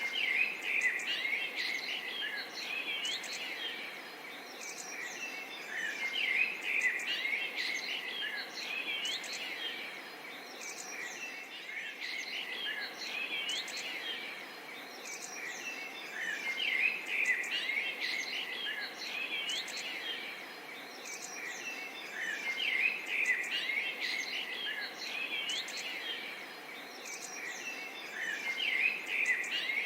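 A chorus of many small birds chirping and calling over a steady background hiss, swelling and easing every few seconds.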